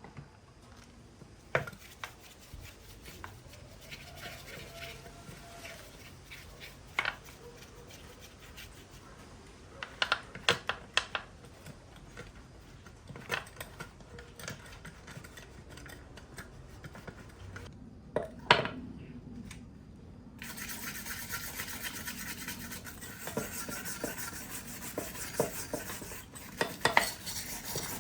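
Metal engine parts being handled in a repair: scattered clinks and knocks, then from about twenty seconds in a steady scratchy scrubbing of a part.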